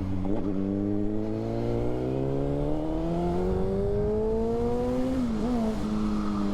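2006 Honda CBR600RR inline-four with a Yoshimura exhaust, pulling under acceleration, its pitch climbing steadily for about five seconds. Near the end the revs dip and settle lower, as at an upshift.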